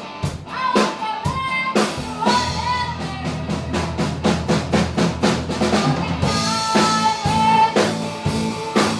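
Live band music: a drum kit keeps a steady beat of snare and bass-drum hits under a sustained melody line, with the accompaniment filling out about six seconds in.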